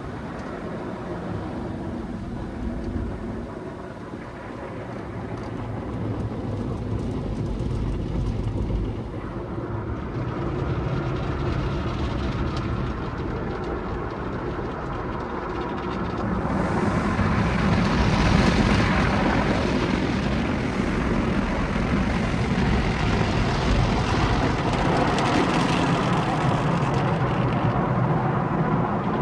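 Car wash tunnel equipment working on a car: steady spraying and machine noise that grows louder and brighter about halfway through.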